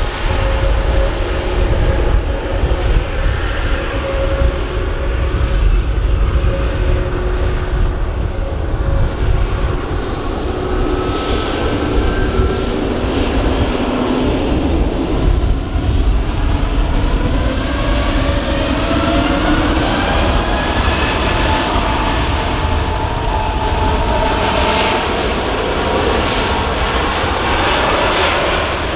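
Airbus A320 jet engines running for take-off, their whine rising in pitch from the middle onward, with wind buffeting the microphone.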